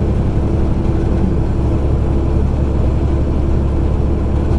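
Truck engine and road noise heard from inside the cab, a steady low drone that stays even throughout.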